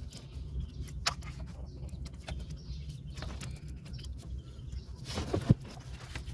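Metal parts and tools clinking and knocking, with a sharp knock about a second in and a louder one near the end, over a steady low hum.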